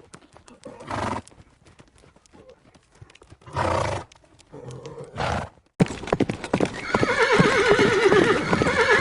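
Horse: scattered light clicks and three short breathy bursts, then about six seconds in a loud, long, quavering whinny.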